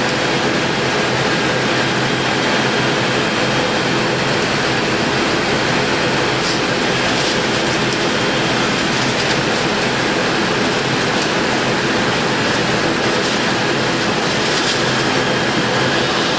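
Steady drone inside the passenger cabin of an ATR 72 turboprop airliner, its engines running on the ground, with a few faint steady whines riding on the noise.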